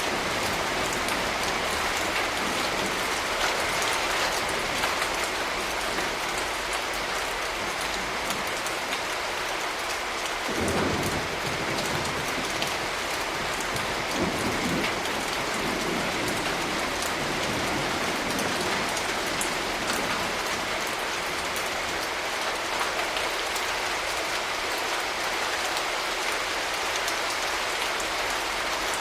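Steady rain falling and pattering on surfaces. Twice near the middle comes a brief low rumble of distant thunder.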